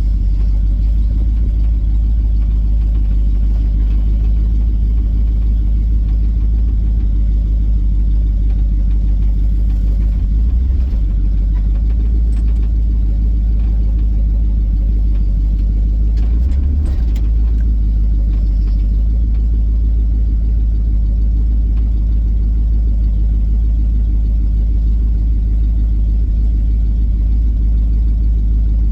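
Old Buick's engine running at low speed, a steady deep exhaust rumble, shifting briefly about ten seconds in and again about sixteen seconds in. The owner thinks he has just broken part of the exhaust.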